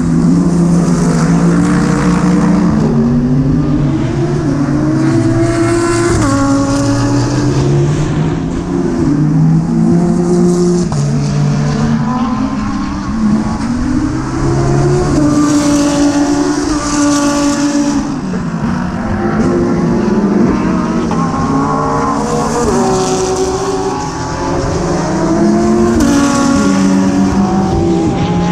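Onboard sound of a GT3 race car's engine at speed. The revs climb through a gear, then drop sharply at each upshift, over and over, with stretches where the pitch steps down through the gears under braking.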